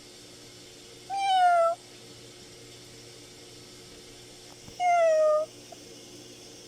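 A cat meowing twice, about four seconds apart. Each meow is drawn out for about half a second and falls slightly in pitch, with a faint steady hum underneath.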